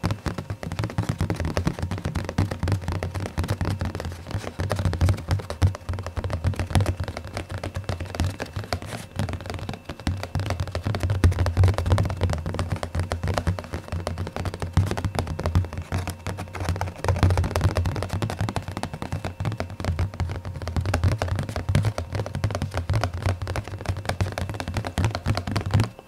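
Fast, dense ASMR tapping: fingertips tapping rapidly, many taps a second, each with a soft low thud beneath the click.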